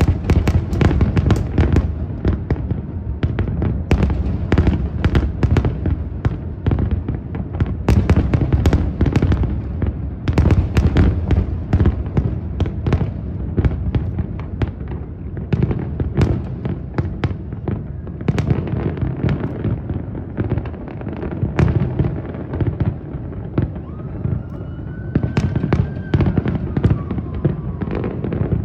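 Aerial firework shells bursting in a dense, continuous barrage: rapid sharp cracks layered over deep, rolling booms. It starts abruptly and thins slightly past the middle before building again near the end.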